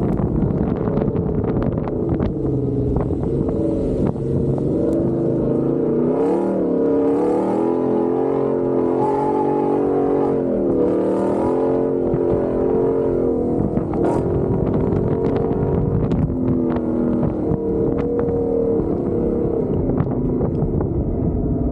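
Truck engine revving up and falling back again and again as it is driven hard over a dirt course, with many short knocks and rattles from the rough ground.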